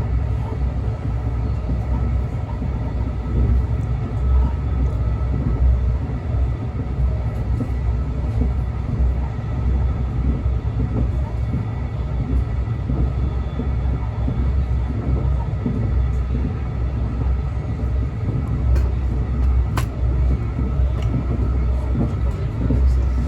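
Brightline passenger train: a steady low rumble with a few faint steady tones above it, unchanging throughout.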